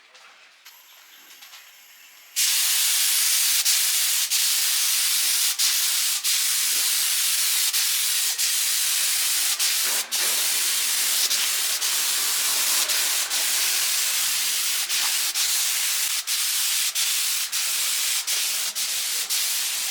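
A loud, steady hiss starts about two seconds in and runs on, with short irregular breaks every second or so.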